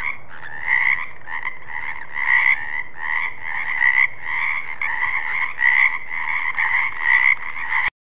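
Frogs croaking in quick, repeated calls, some overlapping, which stop abruptly near the end.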